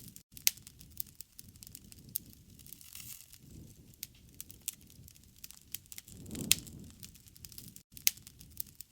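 Wood fire crackling, with sharp pops scattered irregularly over a low rumble of flames that swells now and then. The loudest pops come about half a second in and near six and a half seconds.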